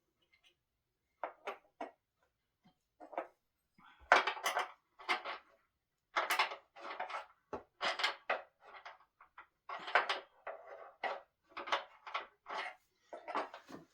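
Wooden parts of a solid-wood dining table being worked during assembly: a run of short scraping strokes, roughly one or two a second, starting about a second in and getting louder and closer together from about four seconds in.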